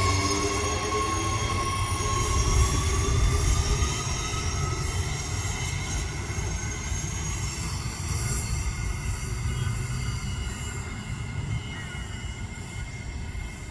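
Electric suburban passenger train moving along the track: a low rail rumble under a high, steady whine that rises a little in pitch early on, the whole sound slowly fading as the train draws away.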